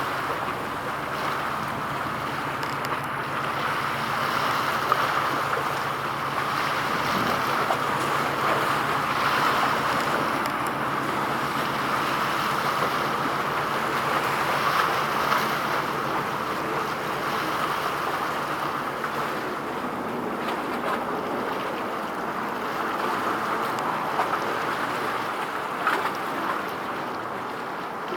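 Steady rushing noise of wind and water, with wind buffeting the microphone. A faint low hum underneath fades out about two-thirds of the way through.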